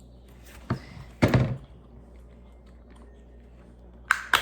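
Plastic Lego pieces knocking and clicking as they are handled and fitted together: a few short sharp knocks, the loudest about a second in and two more near the end.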